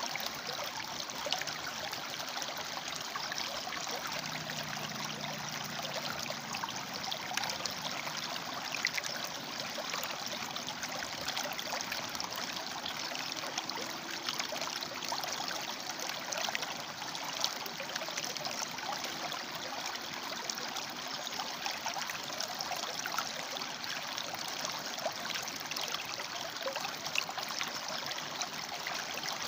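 River water flowing and splashing steadily over and between rocks, a constant rushing with fine bubbling detail.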